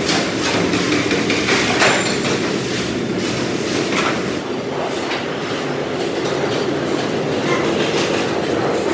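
Factory machinery running with a steady rumbling clatter, broken by a few sharp metallic knocks.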